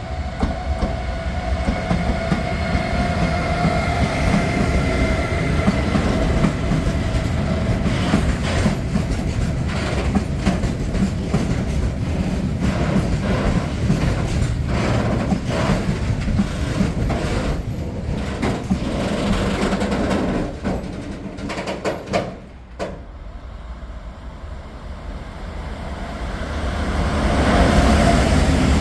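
Train passing through a station at speed. The last of its horn tones die away in the first few seconds, then the wheels clatter rhythmically over the rail joints and stop abruptly a little past two-thirds of the way in. A rising rumble builds again near the end.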